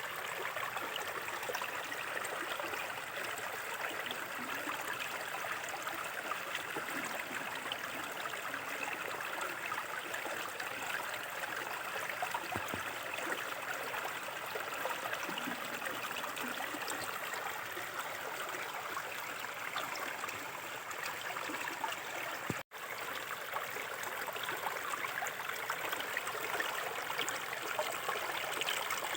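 Small shallow river flowing over stones, a steady babble and trickle of water. The sound cuts out for an instant about two-thirds of the way through.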